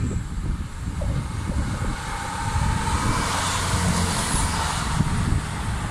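Passenger train passing close at speed: a rush of wheel and air noise that builds to its loudest about four seconds in, with a faint whine under it. Wind buffets the microphone throughout.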